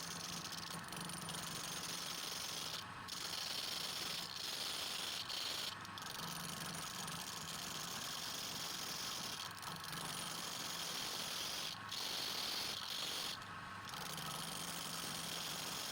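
Electric power tool running with a steady motor hum and a continuous abrasive hiss, which breaks off briefly every second or two as the tool is lifted or shifted.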